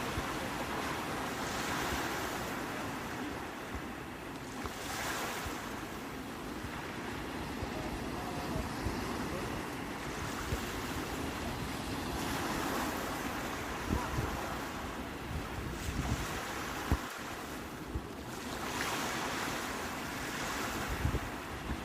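Sea waves washing onto the shore, the surf swelling and easing every few seconds, with wind buffeting the microphone in low thumps.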